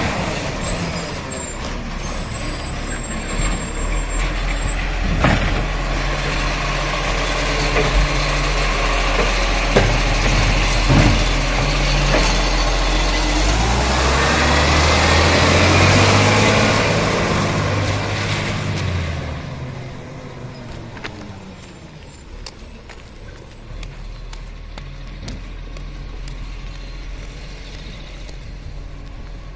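Garbage truck's diesel engine running, revving with a rising whine partway through, with a few sharp knocks; after about twenty seconds it drops to a quieter steady running.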